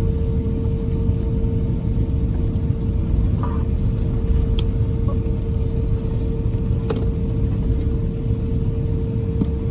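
Cabin noise inside an Airbus A350-1000: a steady low rumble with a constant hum, and a few faint clicks near the middle.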